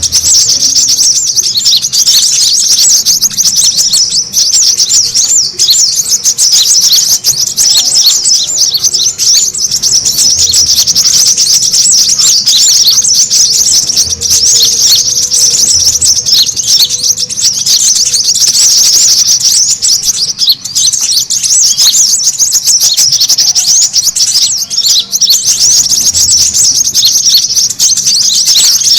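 Brown-throated sunbirds (kolibri kelapa) chattering in a dense, unbroken stream of rapid, high chirps: the excited 'ribut' call used as a lure to draw other birds in.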